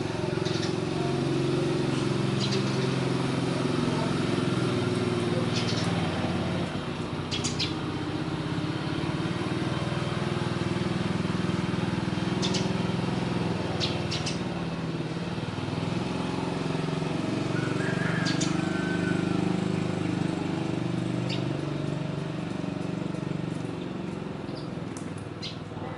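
An engine idling steadily close by, its low hum shifting slightly in pitch now and then, with brief high bird chirps scattered over it.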